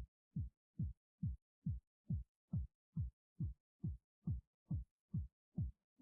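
Background music: a lone deep electronic kick drum beating evenly, a little over two beats a second, each beat dropping in pitch.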